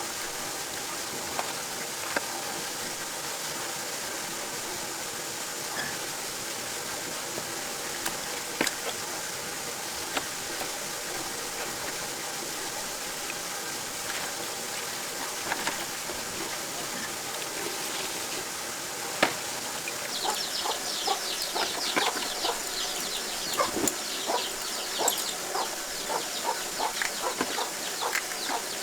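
Steady background hiss with occasional sharp clicks. About two-thirds of the way in, birds begin a fast run of high chirping, mixed with many short clicks.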